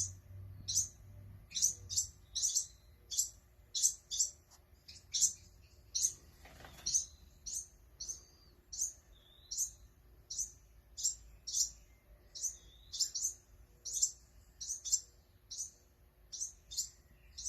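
Baby birds, not yet able to fly properly, chirping over and over in short high chirps, nearly two a second. A brief rustling noise comes about six seconds in.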